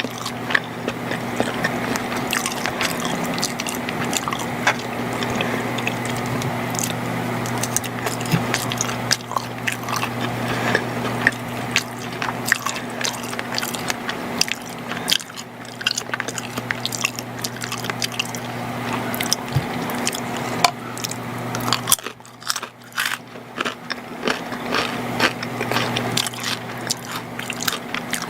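Close-miked chewing and biting of macaroni and cheese, made up of many small, quick, moist clicks and smacks. The chewing eases off briefly about 22 seconds in, then resumes.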